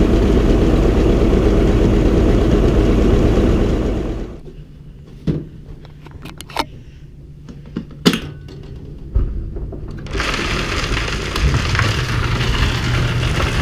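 Tractor engine running loudly, then cutting off abruptly about four seconds in. A few sharp clicks and knocks follow over the next several seconds. A steady noisy sound with a low hum returns near the end.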